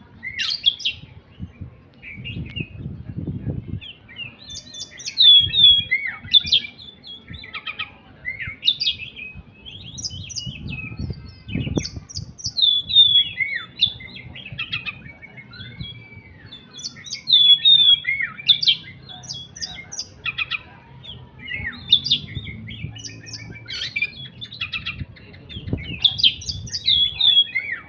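A caged songbird singing repeatedly, with rapid chirps and short falling whistled notes that come in bursts every few seconds.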